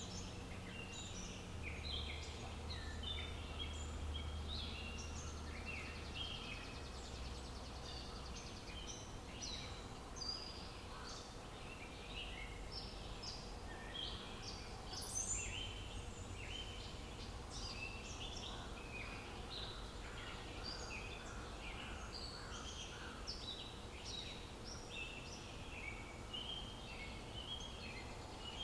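A dense chorus of many small birds chirping at once, short overlapping calls with no pause, over a faint low rumble.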